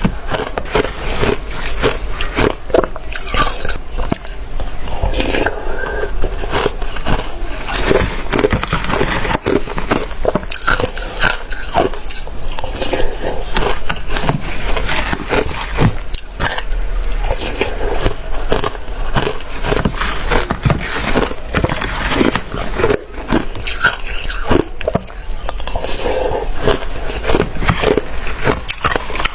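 Close-up biting and chewing of watery, slushy ice: a continuous run of wet crunches and crackles.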